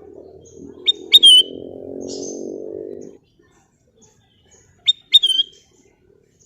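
Kutilang emas bulbul singing two short, loud whistled phrases about four seconds apart, each a sharp quick note dropping into a clear falling whistle. A low hum runs underneath for the first three seconds, then cuts off.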